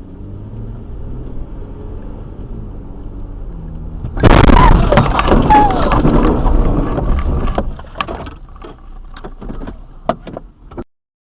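Car collision: steady driving rumble, then a sudden loud crash about four seconds in, followed by crunching and rattling knocks that die away over several seconds.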